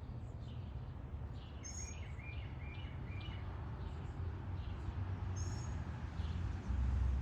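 Backyard birds chirping: a high double chirp twice, about four seconds apart, and a quick run of lower chirps about two seconds in, over a steady low rumble that grows louder near the end.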